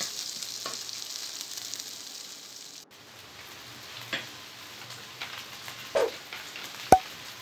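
Chicken strips, onion and green pepper sizzling in hot oil in a wok as they are stirred with a wooden spatula. The sizzle is strongest for the first few seconds, then fades to a low hiss with a few light clicks and one sharp knock near the end.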